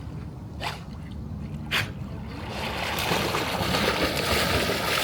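A dog splashing through water: two short splashes, then a steadier, building wash of splashing.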